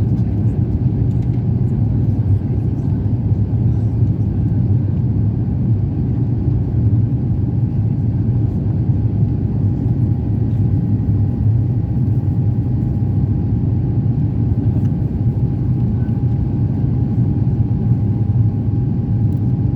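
Steady cabin noise of an Airbus A350-900: a loud, even engine and airflow rumble with a faint steady whine over it.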